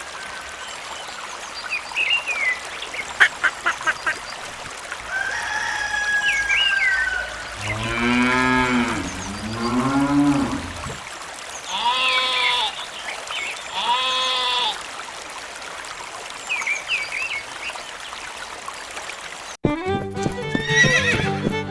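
Farm animal calls: a long, wavering low call a third of the way in, then two shorter, higher calls, with scattered chirps before them. Music starts suddenly near the end.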